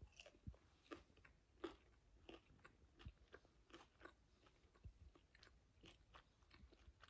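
Faint, irregular crunching of a person chewing a Burger King Plant Based Nugget, its crispy breaded coating crackling at about two or three small crunches a second.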